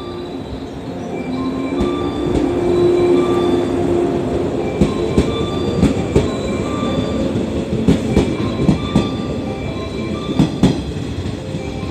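A JR 115 series electric train pulling out and gathering speed, its motors humming as it gets under way. From about five seconds in, its wheels clack sharply over the rail joints as the cars pass close by.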